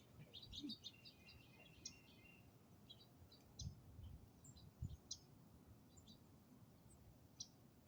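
Faint bird chirps, short scattered calls, with two soft low thuds in the middle.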